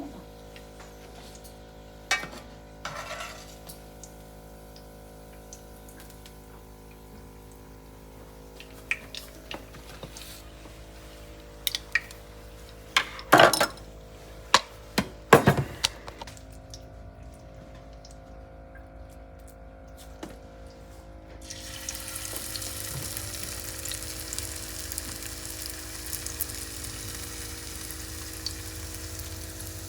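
Potato latkes frying in oil in a pan: a few clinks and two sharp knocks of a utensil on the pan, then about two-thirds of the way through a steady sizzle of hot oil starts suddenly and keeps going.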